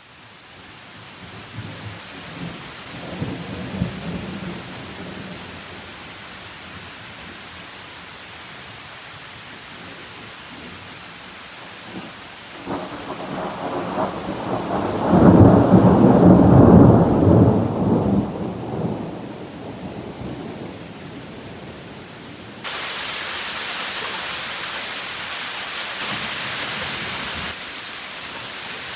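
Thunderstorm: thunder rumbling over steady rain. There is a first low rumble a few seconds in, then a long, loud roll of thunder in the middle. About two-thirds of the way through, a louder, steady hiss of heavy rain starts abruptly.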